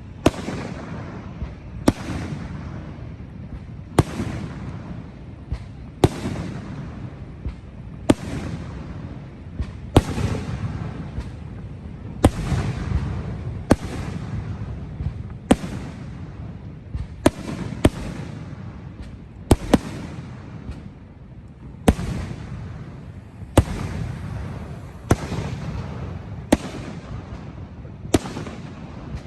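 Fireworks display going off: sharp bangs of shells bursting about every one and a half to two seconds, with a continuous low rumble between them.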